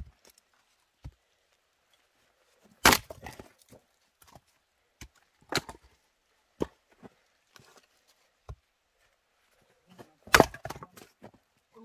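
Dry firewood being struck and split: two loud sharp cracks with a splintering tail, about 3 seconds and 10 seconds in, and lighter wooden knocks between them. The wood is bone-dry.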